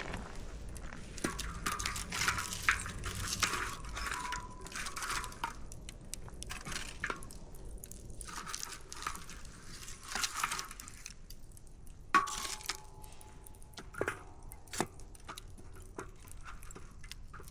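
Campfire firewood crackling and popping: irregular snaps, some in quick clusters, with one loudest sharp pop about twelve seconds in.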